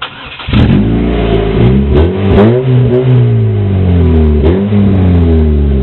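2006 Chevrolet Cobalt's engine revved through a mostly stock exhaust whose clogged catalytic converter has been opened up. The revs climb about half a second in, drop back and climb again twice, then hold.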